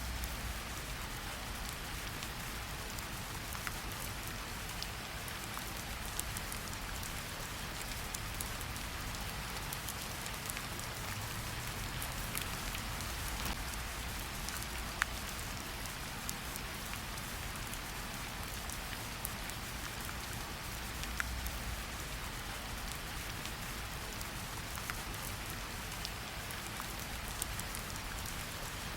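Steady rain falling in a forest, an even hiss of rain with individual drops pattering and ticking, one sharper drop hit about halfway through.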